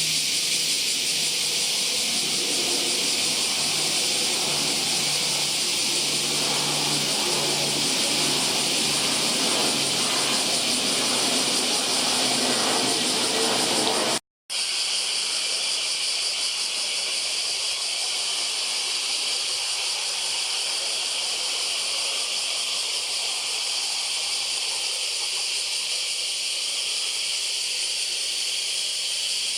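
A steady, high-pitched hiss throughout. In the first half a low hum from a distant jet airliner's engines lies under it. The sound cuts out for a moment about halfway and comes back as the hiss alone.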